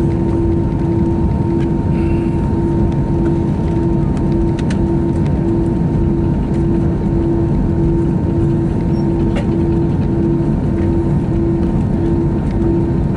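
Airbus A321 cabin noise with the engines running: a steady low rumble and rush of air, with a humming tone that pulses about twice a second and a faint steady higher whine.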